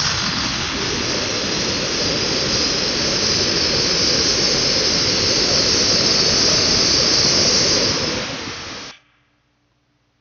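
Loud, steady car engine and exhaust noise, played back from a car video, cutting off abruptly about nine seconds in.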